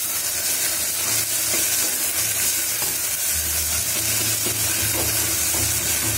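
Chopped onions, tomato and fresh herbs sizzling as they sauté in hot oil in an aluminium pressure cooker, stirred with a steel spoon that scrapes the pan. A low steady hum sits underneath and grows stronger about halfway through.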